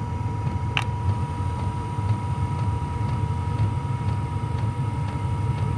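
Diesel air heater running: a steady low rumble of the combustion fan and burner with a thin constant whine, and the fuel pump ticking at regular intervals, pumping faster now that the heater is back on its normal setting. A single sharper click about a second in.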